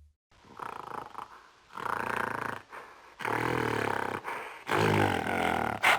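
Gorilla calling: a series of about four low-pitched calls, one after another, each lasting about a second.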